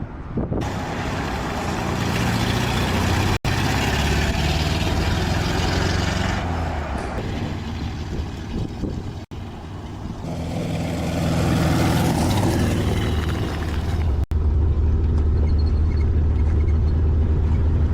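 Motor vehicle engine running with a low, steady hum, broken by abrupt cuts about three, nine and fourteen seconds in. It is loudest and steadiest over the last few seconds.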